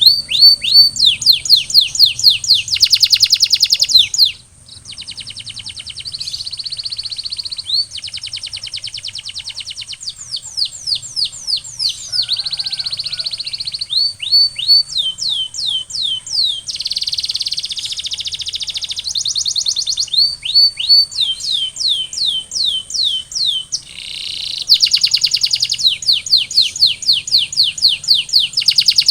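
Domestic canary singing: phrase after phrase of fast repeated notes and trills, each phrase a run of the same note, with a brief lull about four seconds in. A faint steady high tone runs underneath.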